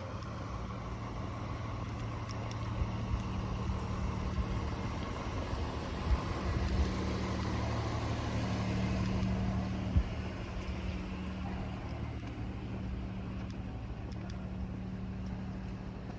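A motor vehicle's engine running with a steady low hum, its noise growing louder to a peak about halfway through and then easing off, with a few faint knocks.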